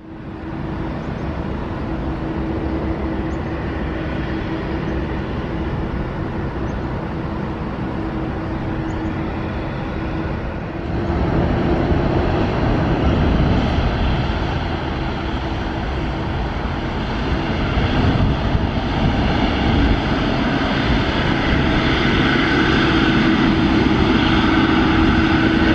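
Boeing 777-200ER jet engines running, a steady noise with a constant hum through it. The noise steps up suddenly about eleven seconds in and grows louder again toward the end.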